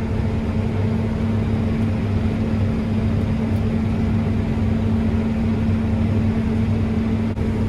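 Combine harvester running steadily: a constant machine drone with an even, unchanging hum.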